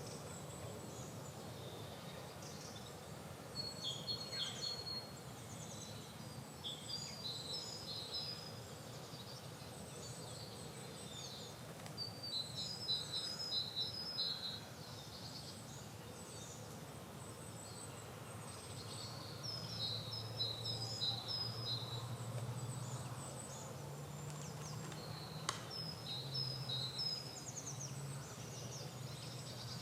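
Several birds singing in a spring chorus: short high chirps and repeated phrases of a few quick notes, coming in clusters, over a steady low hum. A single sharp click about 25 seconds in.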